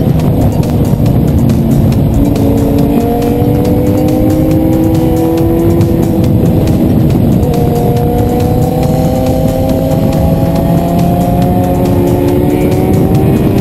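Sport motorcycle engine accelerating hard, its pitch climbing through long pulls with two upshifts (about two seconds in and again past the middle), under a heavy rush of wind.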